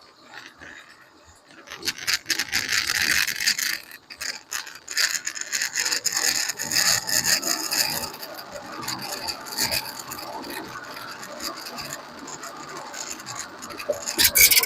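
Clip-on microphone near the left rear wheel of a 30-series Toyota Prius, picking up dense rasping, rattly noise from about two seconds in. It eases a little midway, swells again near the end, then cuts off. The owner is tracing an abnormal rattle at this wheel and wonders whether it is an early hub-bearing fault.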